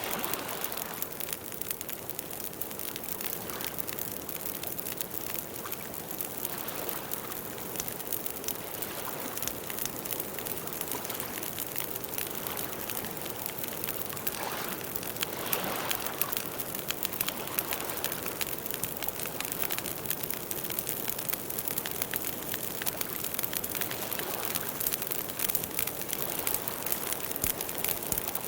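Campfire burning steadily, with a dense patter of small crackles and pops over a soft hiss from the flames.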